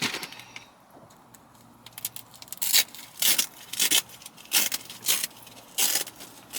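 Short scraping and rustling noises with light metallic jangles, coming in quick bursts from about two seconds in: a car seat cover being worked around the seatbelt and its buckle.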